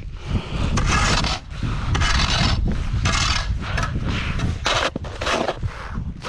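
Snow being shovelled: a series of scraping, rasping strokes, about one a second, with a low rumble beneath them.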